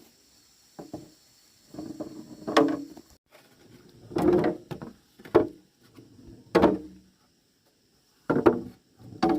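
Irregular wooden knocks and clatters, about one a second with a short pause near the end, as pieces of wood are handled and struck.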